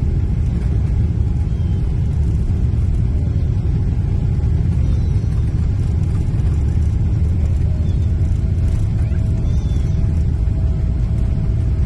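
Jet airliner's engines giving a steady, loud low rumble during the take-off.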